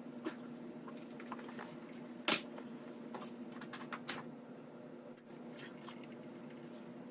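Handling of wood door trim: scattered light taps and scrapes with a few sharp knocks, the loudest about two seconds in, over a steady low hum.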